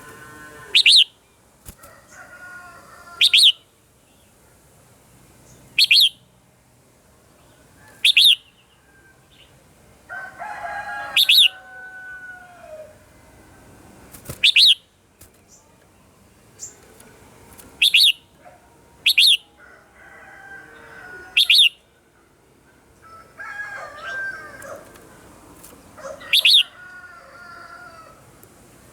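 Red-whiskered bulbuls singing: quieter warbled, liquid phrases broken by about ten loud, very short sharp notes every two to four seconds.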